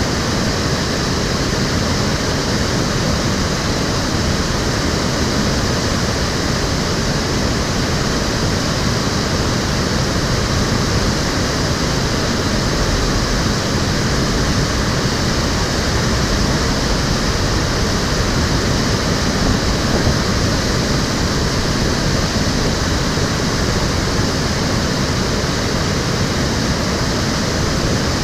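Stream water flowing and splashing in a steady, even rush.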